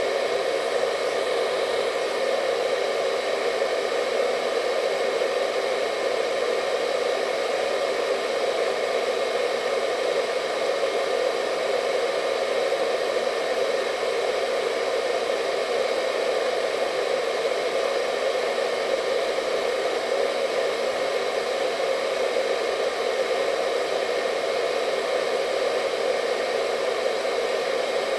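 Hair dryer running steadily: an unchanging airy rush strongest in the low-middle range, with faint steady whine tones above it.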